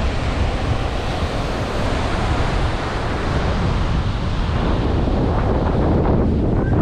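Strong wind buffeting the microphone, with sea surf washing in underneath as a steady rushing noise.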